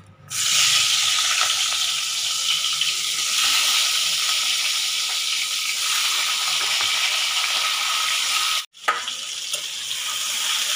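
Pieces of pointed gourd (potol) dropped into hot oil in a steel pan, frying with a loud, steady sizzle that starts suddenly as they go in. The sizzle cuts out for a moment near the end and comes back a little quieter.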